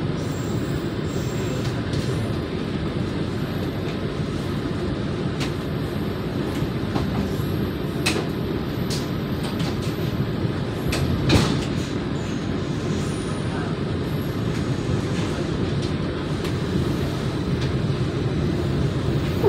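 Steady rumble of a moving passenger train heard from inside the coach, wheels running on the rails, with a few sharp clicks and one louder knock about eleven seconds in.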